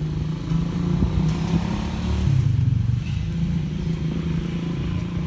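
A small engine running steadily, its low hum swelling for a moment around the middle.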